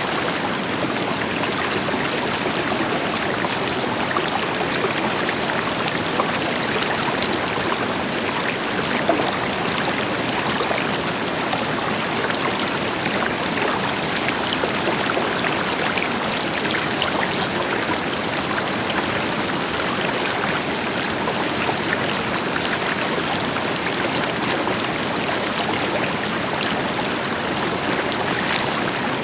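River water flowing and splashing over rocks, a steady rushing with fine bright splashes, over the deeper hiss of a waterfall in the distance.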